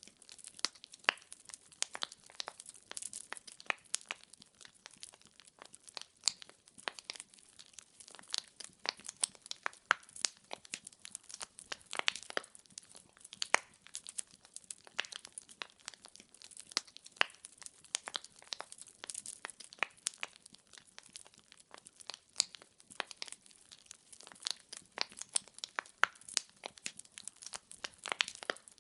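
Burning firewood crackling and popping, with dense, irregular sharp snaps and occasional louder pops over a soft hiss.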